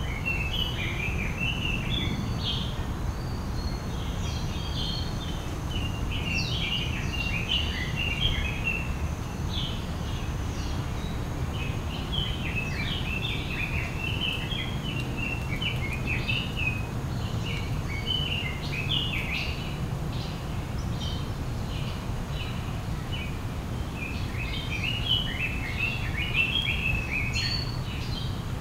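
Small birds chirping in busy clusters of short, high notes, with brief lulls, over a steady low rumble of outdoor background noise.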